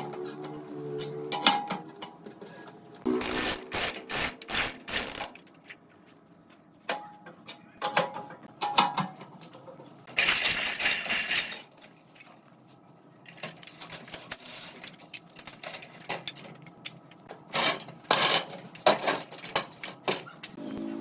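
Hand tools and pieces of wood knocking and clattering in irregular bursts, with a longer noisy rush lasting under two seconds about ten seconds in.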